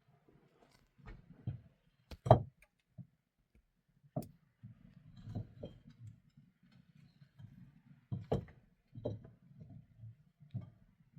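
Irregular knocks and handling thumps, the loudest a sharp knock about two seconds in, over a faint low rumble.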